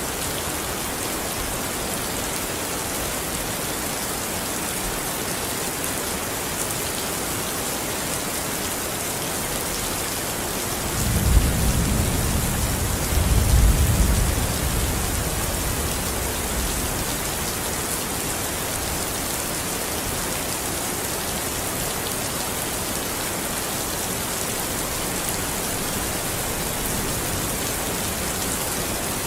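Steady heavy rain falling, with a roll of thunder rumbling low about eleven seconds in, swelling twice and fading over a few seconds.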